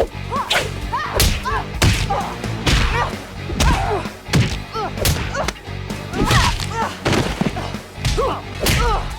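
Animated hand-to-hand fight sound effects: a fast run of punch and kick swishes and impact thwacks, about two a second, mixed with short effort grunts from the fighters over a low music underscore.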